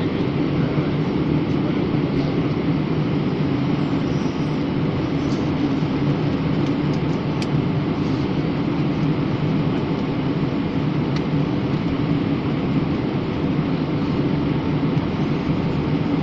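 Steady drone of engine and airflow noise inside an aeroplane cabin in flight, unchanging throughout.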